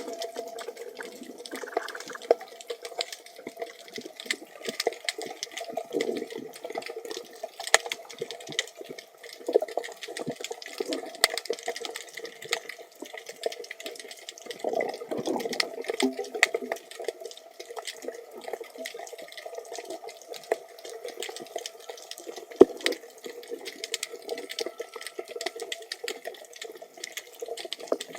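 Water sounds picked up underwater by a camera in a waterproof housing: a continuous muffled rush of moving water, with many scattered sharp clicks and crackles.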